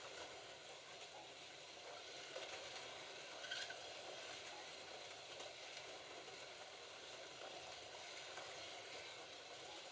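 Slot cars running laps around the track: a faint, steady hiss of small electric motors, with one brief sharper sound about three and a half seconds in.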